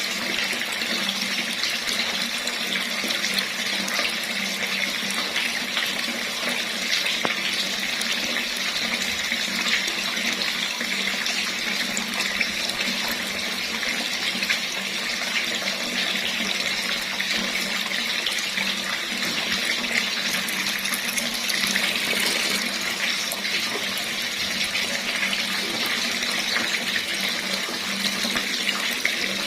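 Water running steadily from a tap, a continuous splashing hiss.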